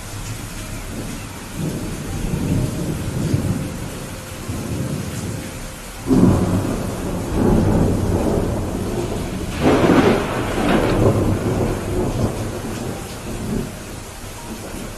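Steady heavy rain with thunder: a low rumble early on, then a sudden loud peal about six seconds in and a sharper crack around ten seconds, the thunder rolling on and fading near the end.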